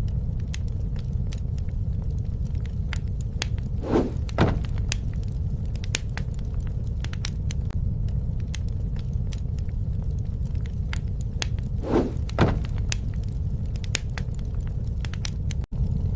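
Wood fire crackling, with scattered sharp pops over a steady low rumble. Twice, about eight seconds apart, comes a pair of slightly louder brief sounds. The sound cuts out for an instant near the end.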